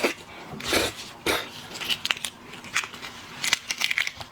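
Shellfish being eaten and handled: three loud crunches in the first second and a half, then a run of quick clicks and crackles as shells are cracked and picked apart.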